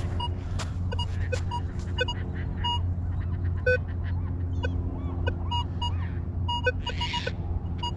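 Minelab Vanquish 440 metal detector sounding short electronic beeps at several different pitches, irregular, as the coil sweeps over targets in wet beach sand, with a steady low hum underneath.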